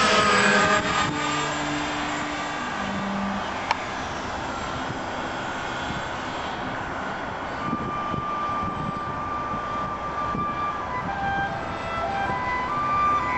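Radio-controlled B-17 Flying Fortress model's motors and propellers droning steadily as it flies, sweeping past near the start.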